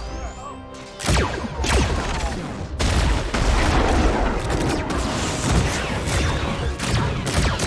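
A dense, rapid volley of shots and impacts from film battle sound effects, starting abruptly about a second in after a brief stretch of held musical tones.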